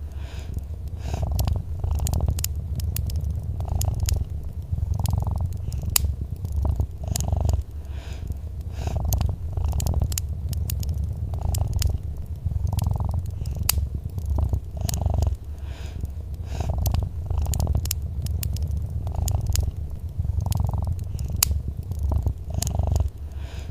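Domestic cat purring steadily, the purr swelling and easing in regular pulses with each breath, over scattered crackles of a wood fire.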